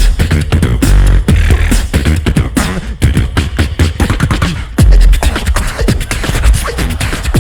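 Live beatboxing by a duo: a fast run of vocal kick, snare and click sounds over deep sub-bass booms that swell in the first second and again about five seconds in.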